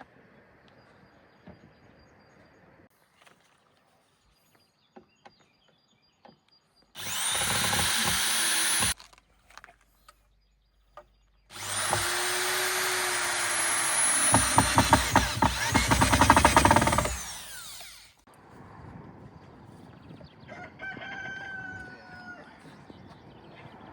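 Electric power tool run twice into wood, its motor whining up to speed and winding down after each run: a short burst, then a longer run that grows louder and rougher partway through as it bites into the timber.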